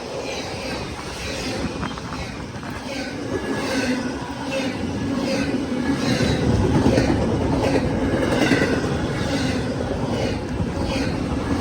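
CSX freight train rolling past, its wheels clicking over the rail joints in a steady rhythm of about two clicks a second over a steady low hum. It grows louder toward the middle.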